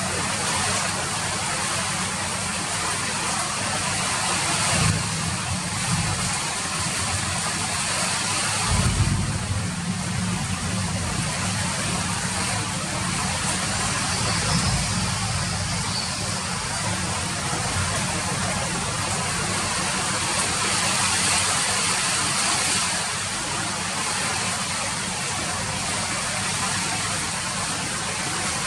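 Steady rain falling, an even hiss that does not let up, with a brief low rumble about five seconds in and another about nine seconds in.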